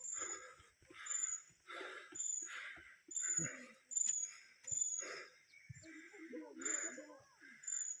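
A person panting hard, a quick, even run of loud breaths in and out.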